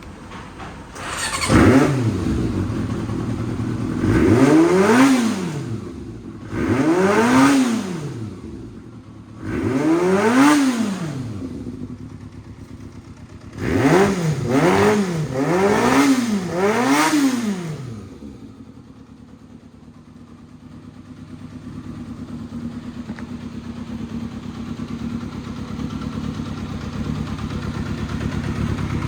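Yamaha XJR400R's air-cooled inline-four engine through an RPM aftermarket muffler, idling and being revved with the throttle: one quick blip, three longer revs, then four revs in quick succession before it settles back to a steady idle.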